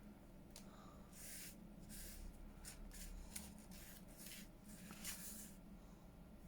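Faint rustling and sliding of paper as cut-out pieces and inked paper are handled and laid onto a journal page, in a series of short soft brushes.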